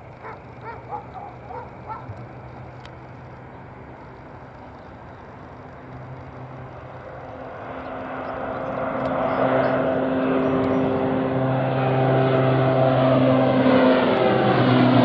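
A few geese honking, then aircraft engines growing steadily louder from about six seconds in as a plane approaches, with a steady drone and several held tones.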